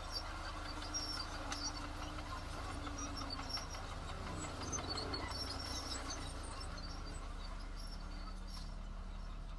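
Diesel engine of heavy earthmoving machinery running steadily, with scattered short high-pitched squeaks and clicks over the low hum.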